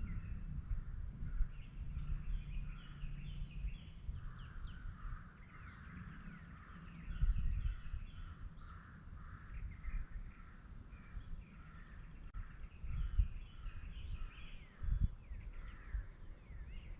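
Small birds chirping and singing in quick repeated notes, with several low thumps and rumbles on the microphone.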